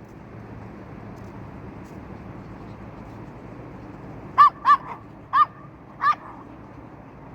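A dog barking four times in quick succession about four seconds in, over a steady wash of surf.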